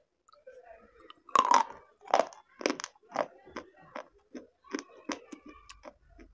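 A person bites into something hard and crunchy, then chews it with crunches about two a second that slowly fade.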